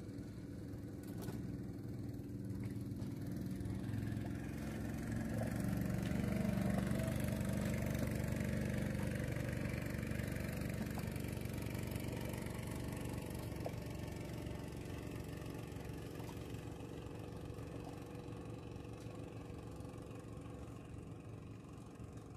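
A small boat engine running steadily as it passes on the reservoir, growing louder over the first several seconds and then slowly fading away.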